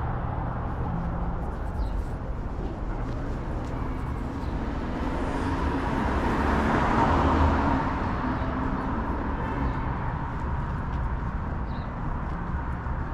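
City street traffic: a steady rumble of road noise, with a vehicle passing close by about halfway through, swelling and then fading.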